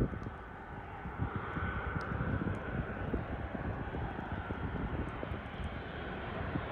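ATR 42-300 twin-turboprop airliner on its landing approach: engines and propellers giving a steady drone with a higher hum in it that swells slightly about two seconds in.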